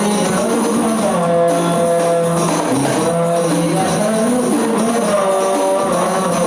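Rebana frame drums with jingles played in a steady rhythm, under singing voices carrying a melody of long held notes that slide from pitch to pitch.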